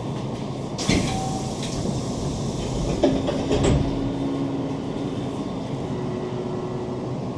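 Hankyu 7000 series electric train rolling into a station stop: a steady rumble of wheels on rails, with a few sharp knocks about one second and three seconds in.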